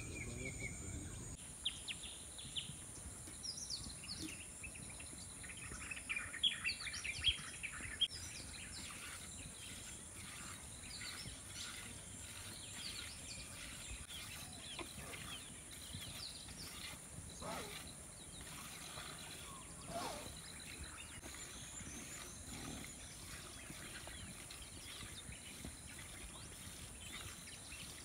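Birds chirping and calling, busiest in the first several seconds, over a faint steady high-pitched hiss.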